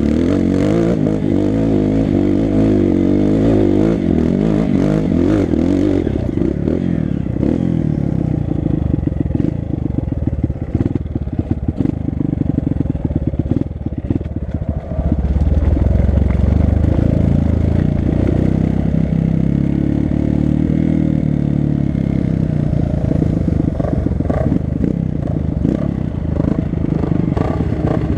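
Four-stroke single-cylinder dirt bike engine under way, revs rising and falling as it is ridden. Through the middle stretch there is a lot of clattering and knocking from the bike going over rough ground. After that, a little past halfway, the engine pulls harder and steadier.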